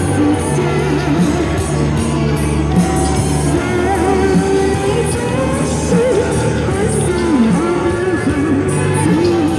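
A singer performing a Chinese pop song over instrumental accompaniment. The sung line wavers with vibrato above steady low notes.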